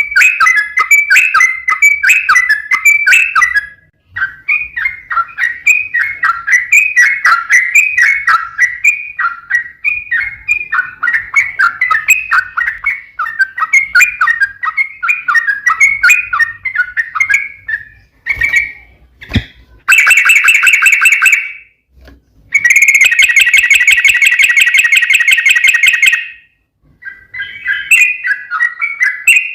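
Yellow-vented bulbul song: long runs of fast, bubbling chattering notes, broken about two-thirds of the way in by two long, harsh buzzy calls, before the chatter resumes near the end.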